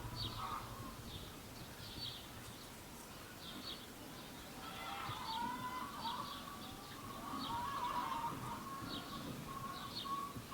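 Birds chirping: short high chirps repeat every half second to a second. About halfway in, a lower, wavering song joins them.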